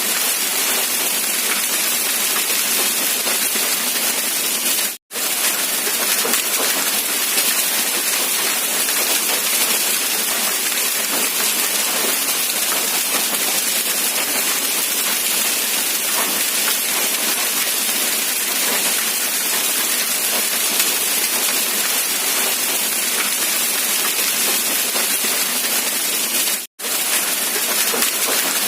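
Rain falling steadily: a dense, even hiss of drops with no let-up, briefly cutting out to silence for a moment twice, about five seconds in and near the end.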